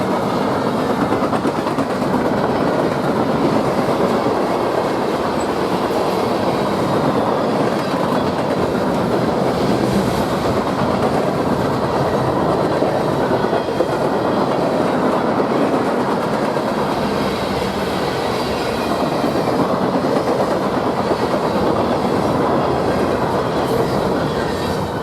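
A train's cars rolling past at a grade crossing: a steady, loud noise of steel wheels running on the rails.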